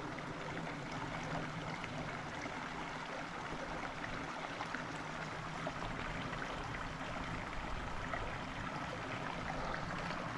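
Small mountain creek running over rocks: a steady, even rush of water.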